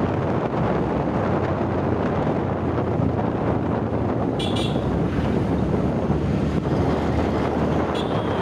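Steady road traffic noise with wind buffeting the microphone, with two short high beeps, about four and a half seconds in and near the end.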